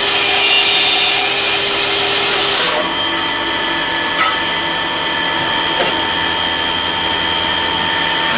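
CNC lathe turning a workpiece with a carbide-insert turning tool: steady machining noise with high whining tones from the spindle and the cut. The whine changes pitch about three seconds in.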